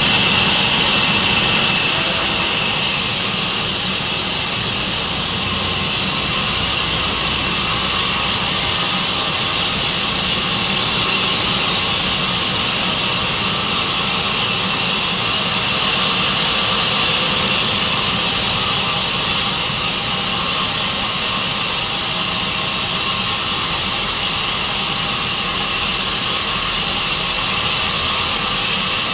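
Sawmill saw machine running steadily, a loud, even noise with no pauses or breaks.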